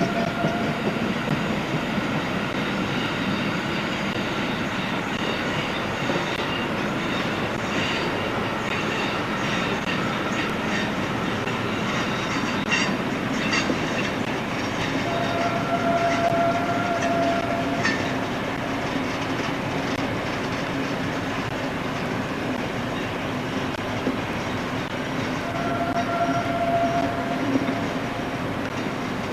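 A train running along the line with a steady rumble and scattered clicks of the wheels on the rails. The horn sounds two long single-note blasts, one about halfway through and one near the end, with the tail of a third right at the start.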